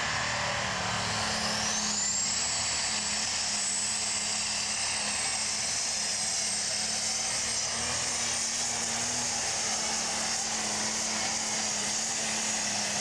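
Super stock pulling tractor's turbocharged engine running flat out under load. A high turbo whine climbs in pitch over the first couple of seconds, then holds steady.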